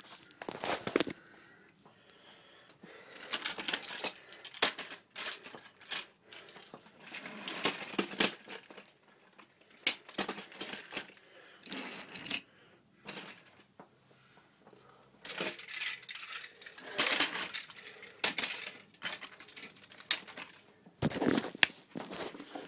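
TOMY plastic toy trains and track being handled, with irregular bursts of hard plastic clicking and clattering between short pauses.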